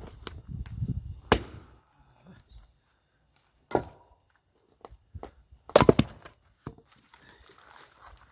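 Axe splitting firewood: three sharp blows about two seconds apart, the third the loudest. A lighter knock follows just after it.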